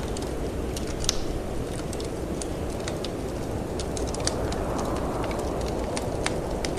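Wood fire crackling in a fireplace, with irregular sharp pops, over a steady low rush of wind that swells about four seconds in.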